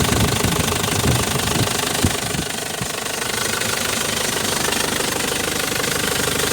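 Holden Rodeo 3.0-litre four-cylinder diesel, with 365,104 km on it, running with a knocking diesel clatter. It is louder and less even for about the first two seconds, then settles into a steady, evenly ticking idle.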